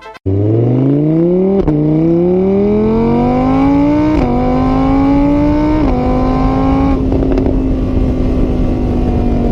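Car engine accelerating through the gears: its pitch climbs, drops sharply at each of three shifts, then holds steady at a high, even note.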